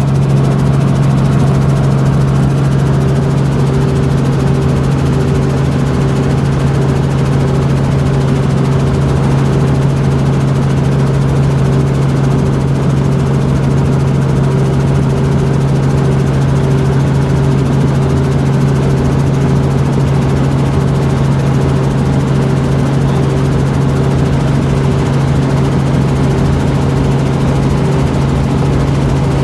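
Helicopter running steadily: a loud, constant low drone that holds one pitch.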